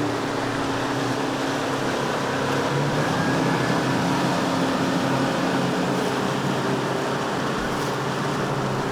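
A passing boat's engine running steadily, its hum holding a few low pitches over a rush of water and wind.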